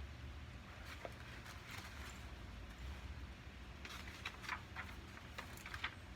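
Light rain outdoors: scattered drops ticking and tapping irregularly, more of them near the end, over a low steady rumble.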